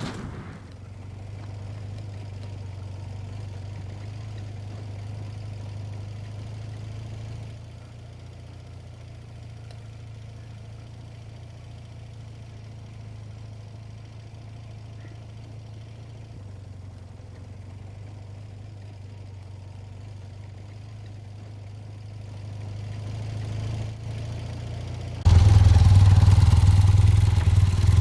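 Motorcycle engine idling steadily with a low hum. Near the end it abruptly becomes much louder.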